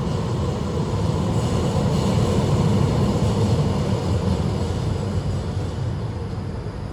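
Tram running with a steady low rumble that slowly fades over the last few seconds.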